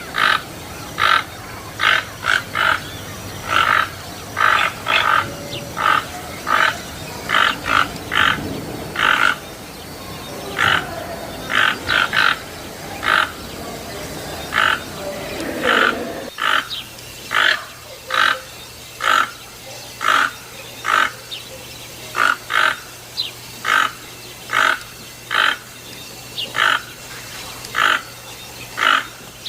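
Toucan giving short, harsh, croaking calls over and over, about one or two a second, with brief gaps.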